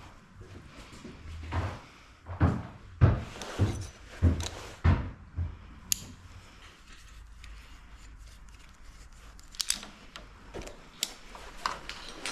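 A run of about seven knocks and thuds over some four seconds, then a quieter stretch with a few sharp clicks near the end: tools and metal parts being handled during garage door opener repair work.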